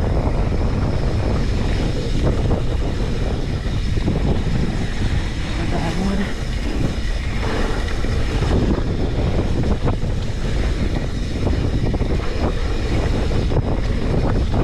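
Wind buffeting an action camera's microphone during a fast mountain-bike descent, with a constant rumble from the trail and many short knocks and rattles from bumps.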